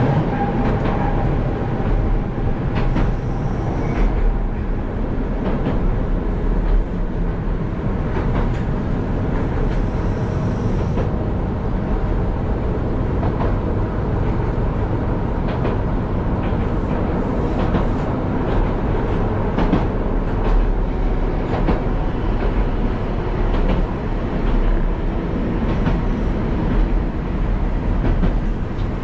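Keihan Keishin Line train running, heard from inside the front car: a steady rumble of wheels on rail, with scattered clicks and knocks from the track.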